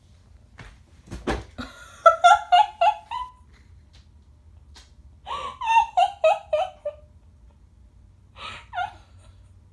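A woman laughing in two high-pitched runs of quick 'ha-ha' pulses, then a shorter laugh near the end. A thump and rustle about a second in.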